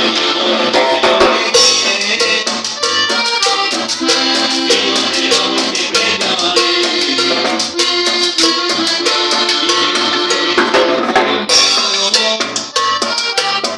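Norteño band music: accordion over a steady drum-kit beat.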